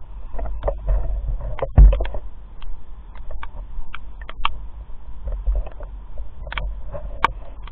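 Raindrops tapping irregularly on a rain cover over the camera, with a steady low rumble of wind and handling underneath. One hit a little under two seconds in is clearly the loudest.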